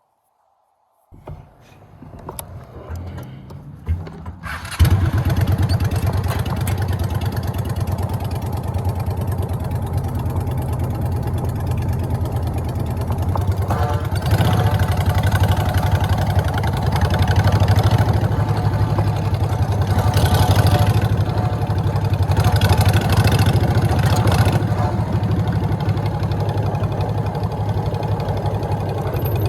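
Motorcycle engine starting about five seconds in after some quieter handling sounds, then idling steadily, with a few louder stretches.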